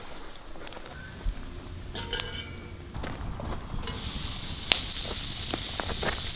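A few light clicks of cooking utensils, then about four seconds in food goes into a hot pan and starts sizzling steadily.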